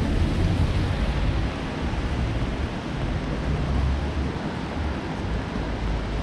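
Steady hiss of rain on a wet city street, with an uneven low rumble of wind buffeting a GoPro's built-in microphone.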